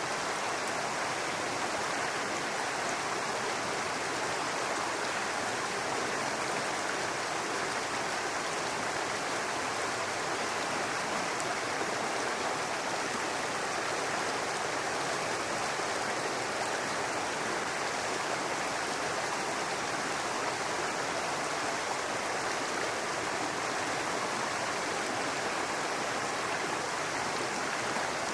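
Small forest brook babbling over rocks: a steady, even rush of running water.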